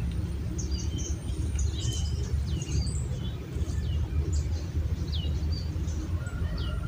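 Small birds chirping: short calls and quick falling whistles, scattered and repeated, over a steady low rumble.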